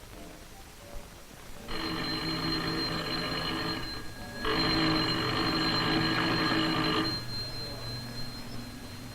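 Telephone bell ringing in two long rings with a short pause between them: an incoming call.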